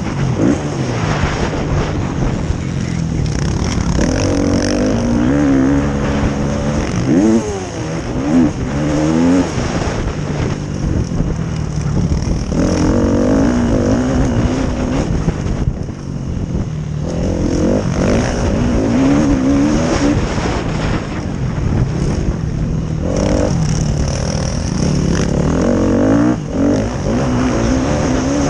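Motocross motorcycle engines racing on a dirt track, their pitch climbing and dropping again and again as riders accelerate, shift and back off, with more than one bike heard at once.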